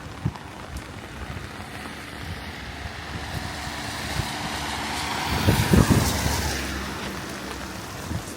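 A car passing by on a wet road, its tyre hiss swelling to a peak about halfway through, with a few low thumps as it goes by, then fading away.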